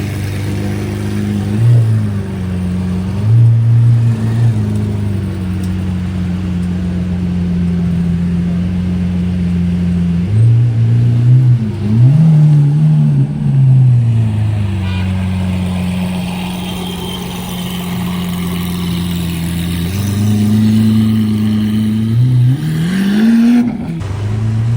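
Motorcycle engine running under way, its note holding steady for stretches and dipping then climbing again several times as the throttle is closed and reopened between gears.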